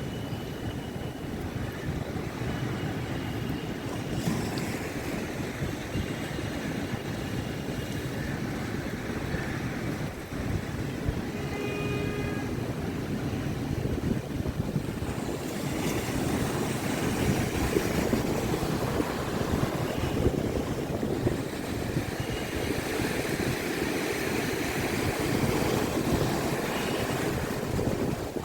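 Rough monsoon sea in strong wind: a steady rush of surf and wind that swells louder and hissier in the second half.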